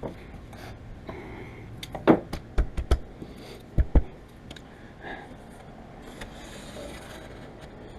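A run of about six sharp knocks and thumps over a couple of seconds, the heaviest two close together, then a quieter stretch of low background noise.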